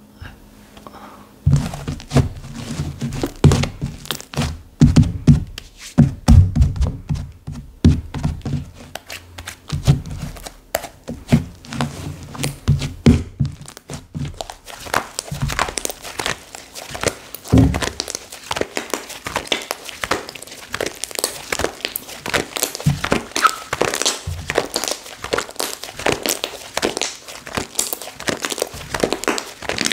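Slime being squished, pressed and stretched by hand, giving a dense run of sticky clicks and air-bubble pops. Heavier low squelching thumps come in the first half, and sharper crackly clicking takes over from about halfway.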